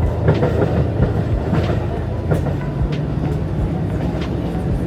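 JR Hokkaido KiHa 150 diesel railcar running along the line, a steady low rumble with irregular clicks as the wheels pass over rail joints.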